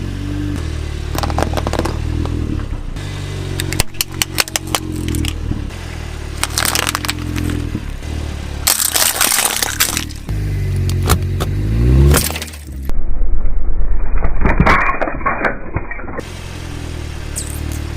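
Car engine running and revving as its tyre rolls over brittle objects, crushing them with repeated bursts of crunching and cracking. The engine's pitch rises at one point, followed by a loud stretch of crushing.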